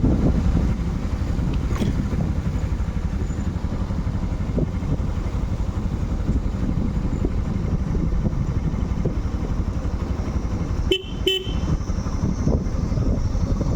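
Motorcycle riding along, its engine and road rumble steady and low throughout. About eleven seconds in, a horn gives two short beeps in quick succession.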